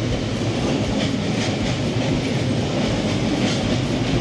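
Pingxi Line train passing close by: a steady, loud rumble with the wheels clacking over the rails.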